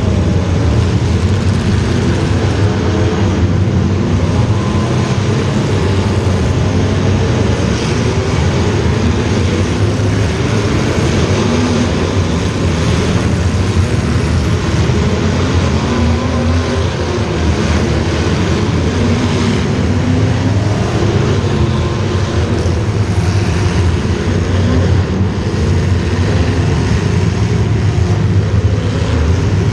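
Racing engines running hard and without a break, their pitch wavering up and down.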